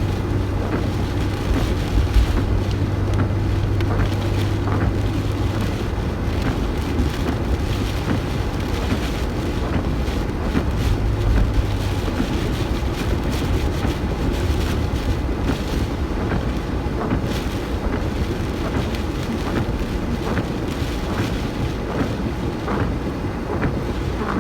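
Steady engine and road noise of a car being driven, heard from inside the cabin, with a low hum that fades out and comes back and wind noise over it.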